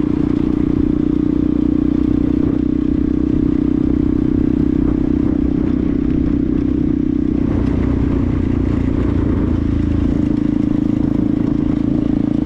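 Benelli TNT 125's single-cylinder engine running steadily; its note wavers and changes between about seven and ten seconds in, then settles again.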